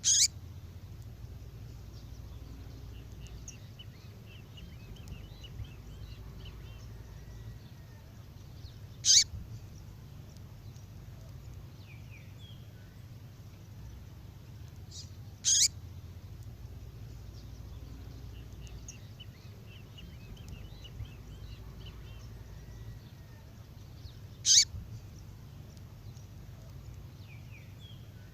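Female songbird call: four short, sharp high calls, spaced several seconds apart, with faint twittering around 3 kHz between them. A steady low hum runs underneath.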